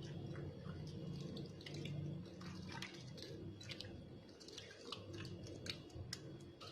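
Raw chicken being mixed by hand with spice paste in a bowl: faint wet squelching with many small irregular clicks.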